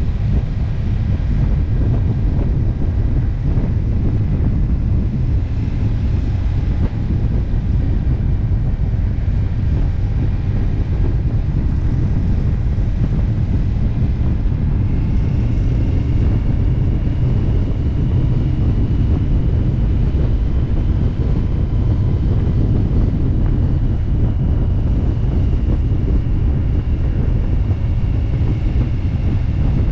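Motorcycle riding at steady cruising speed, heard as a constant low rumble of wind buffeting the microphone mixed with engine and road noise. A faint steady high whine joins about halfway through.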